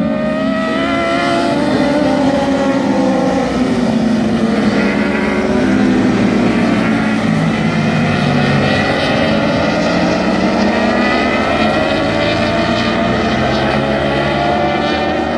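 Several racing superbikes' engines at high revs, overlapping, their pitch rising and falling as they accelerate, shift and pass.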